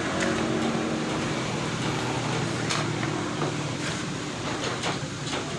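A few sharp metallic clicks as a motorcycle kick-start lever is fitted onto its shaft, over a steady background hum.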